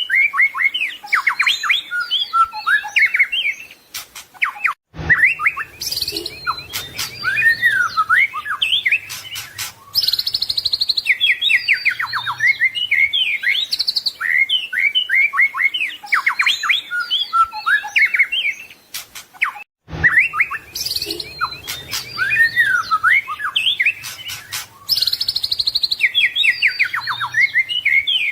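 White-rumped shama (murai batu) singing a fast, varied song of whistles, trills and chattering phrases. The song cuts off abruptly twice, about five seconds in and again about fifteen seconds later, then starts again each time.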